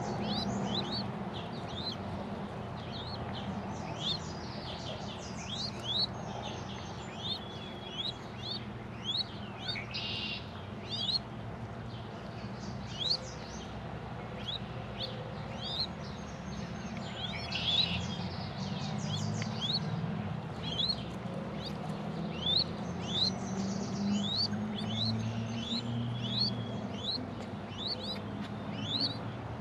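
Small birds chirping: many short, quick, high chirps repeating throughout, over a low steady rumble.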